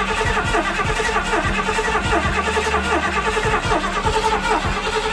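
1979 Ford F-150's 351M V8 being cranked over by the starter without catching: a steady churning with a regular beat of compression strokes, a few per second.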